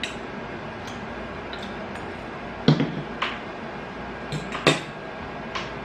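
A few sharp clicks and knocks of chopsticks against dishes while eating, spaced irregularly through the second half.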